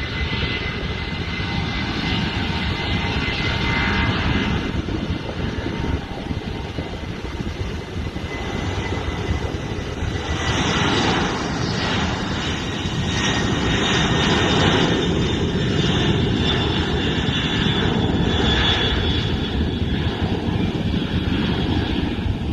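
Boeing 767-300ER freighter's twin turbofan engines at takeoff power: a steady heavy rumble with a thin whine, growing louder with a rushing hiss from about ten seconds in.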